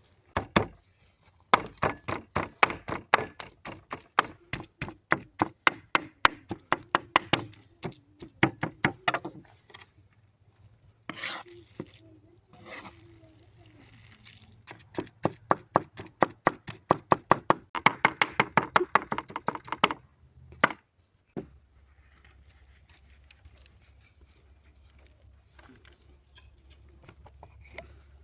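A kitchen knife chopping food on a cutting board in quick, even strokes, about four or five a second. There are two long runs with a short pause and a few loose knocks between them, and it goes quiet near the end.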